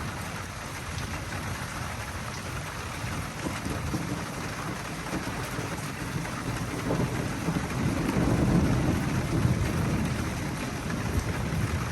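Steady rain falling, with a low rumble of thunder swelling about seven seconds in and easing off near the end.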